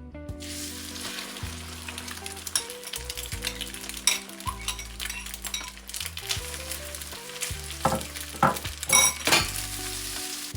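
Eggs sizzling as they fry in a pan, with a utensil clicking and scraping against the pan. The scraping is loudest about eight to nine and a half seconds in.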